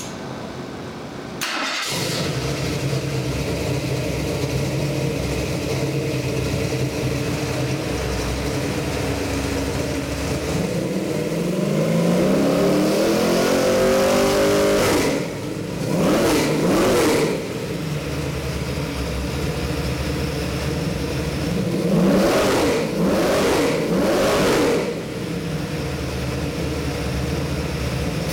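Carbureted Ford 351 Windsor V8 crate engine on a run stand, catching about a second and a half in and then idling. Around the middle it is revved up slowly once and drops back, and later it is blipped several times in quick succession.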